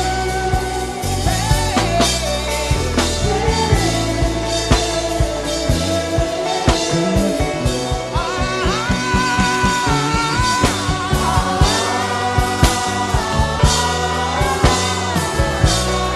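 Gospel worship music: a voice humming a wordless, gliding melody over a band with a steady drum beat and bass.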